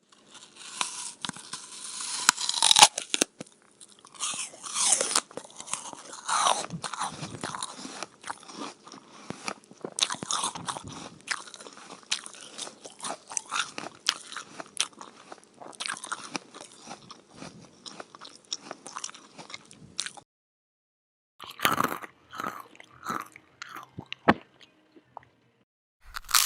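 Dubbed-in eating sound effect: rapid, crisp crunching and chewing like dry food being bitten. It cuts off abruptly about two-thirds of the way through, then returns in a few short bursts.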